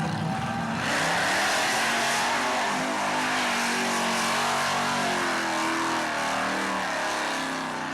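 Monster truck's 540 cubic inch supercharged Ford V8 revving hard. It surges louder about a second in, and the engine note keeps rising and falling, easing off a little near the end.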